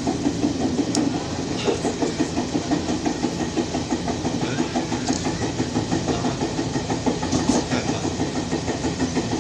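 Electric passenger train running along the track, heard from inside the carriage: a steady rumble with a fast rattle of wheels on rail and car body.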